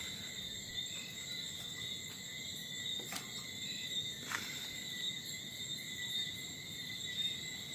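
Night insects, crickets, chirring in a steady high-pitched chorus, with a couple of faint clicks partway through.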